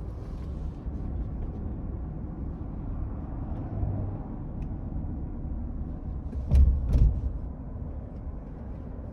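Steady low road and engine rumble inside the cab of a moving Ford F-150 pickup, with two sharp thumps about half a second apart some two-thirds of the way through, the loudest sounds here.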